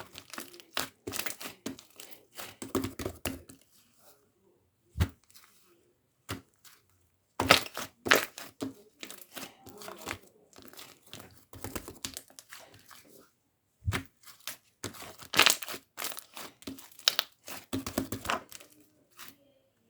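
Fluffy cloud slime being squeezed, stretched and pulled apart by hand: irregular bursts of crackling and sticky tearing, with short pauses between handfuls.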